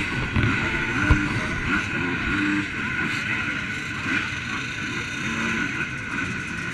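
Motocross motorcycle engines running, a steady drone.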